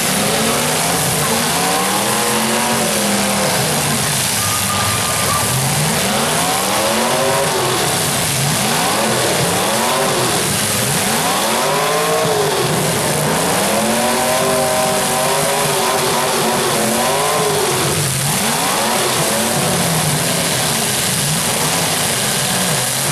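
Several demolition derby cars' engines revving up and down again and again, overlapping, as the cars ram each other, over a constant haze of engine and crowd noise.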